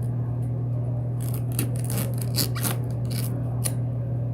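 A blade cutting through a banana's stem: a string of short, crisp clicks and scrapes from about a second in, over a steady low hum.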